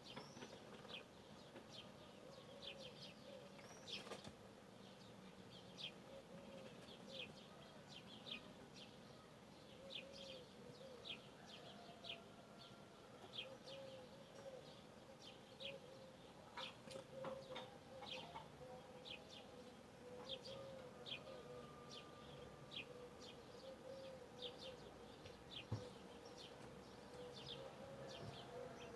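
Birds calling in the morning: many short, high chirps one after another throughout, over a low note repeated about once a second.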